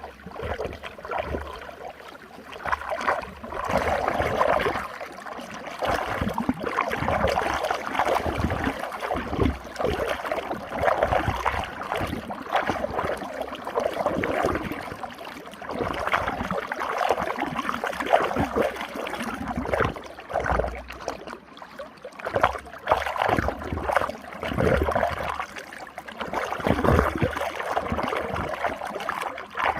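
Running water swirling in a small whirlpool, a steady gurgling and splashing that swells and eases every few seconds.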